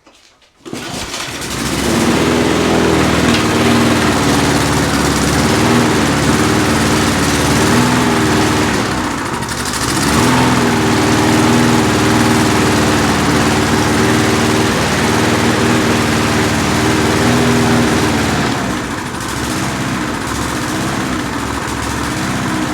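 Briggs & Stratton lawn mower engine starting about a second in and then running steadily. Its speed sags and recovers twice, around a third of the way through and again near the end.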